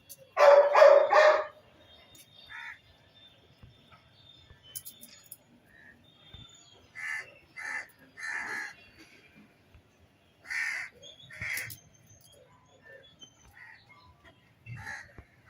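A series of short, harsh animal calls: a loud run of three about half a second in, then quieter single and paired calls every second or two.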